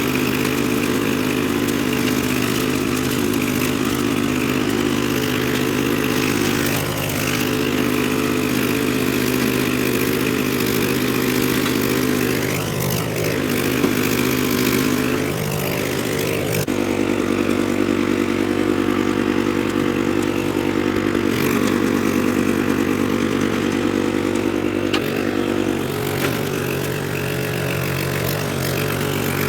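Troy-Bilt Horse rear-tine rototiller's engine running steadily while tilling, its pitch sagging and picking up again a couple of times as the load on the tines changes.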